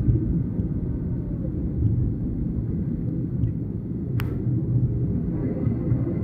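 Steady low rumble of a jet airliner landing, with one sharp click about four seconds in.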